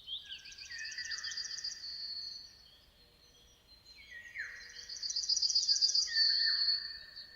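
Songbirds singing, more than one voice at once: a fast high trill of repeated notes over lower falling whistles, heard twice, with a short lull between.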